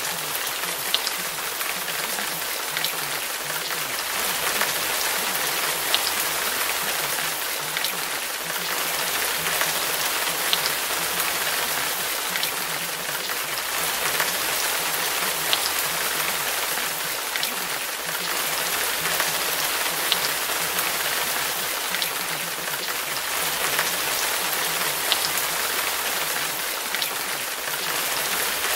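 Steady rain falling, an even hiss with now and then a single sharper drop striking close.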